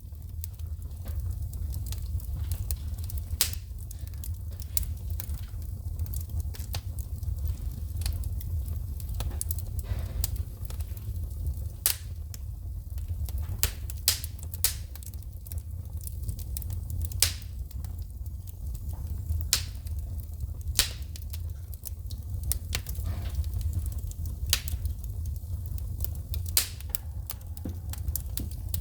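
Wood fire burning in a fireplace: a steady low rumble of flames with frequent irregular crackles and sharp pops as the wood spits sparks, the loudest snaps about 3 s in and around 12, 17, 20 and 27 s.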